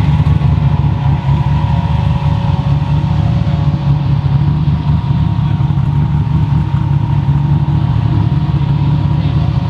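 Car engine running steadily, loud and close, with a low, even engine note and no revving.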